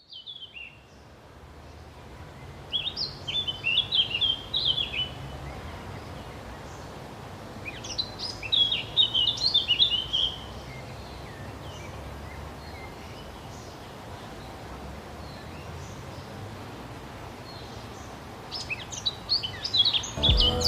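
A songbird singing in short phrases of quick, high chirps, three times with long pauses between, over a steady low outdoor ambience rumble.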